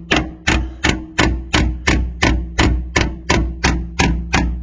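A special tinsmith's hammer striking sheet metal in a steady rhythm, about three blows a second, tapping down the seam around a round metal chimney flashing cone on a standing-seam roof.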